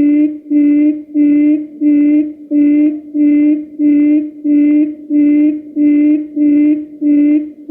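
Recorded quail lure call played back: a low, steady hooting note repeated evenly, about two notes a second.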